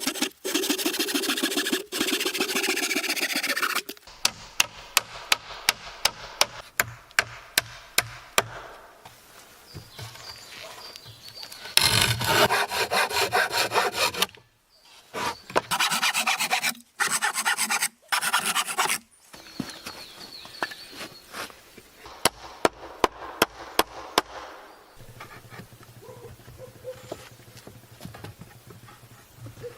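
Saw cutting through wood in fast back-and-forth strokes, in three bursts of a few seconds each. Between the bursts come spells of sharp, regular tapping, about two taps a second.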